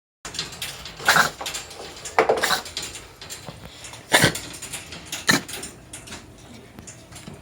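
A Bengal cat coughing in four harsh, rasping bursts over about four seconds, the kind of cough that may be a sign of feline asthma or cat flu.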